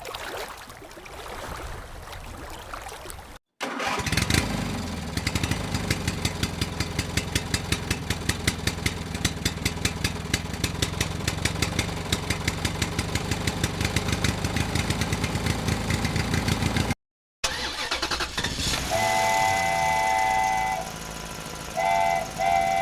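A vehicle engine starting and running with a rapid, even beat. After a short break come horn blasts: one long blast, then two shorter ones near the end.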